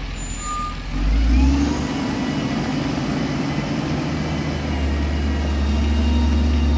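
Heavy diesel engine of earthmoving machinery running loud, revving up about a second in and holding under load. A short single beep sounds near the start.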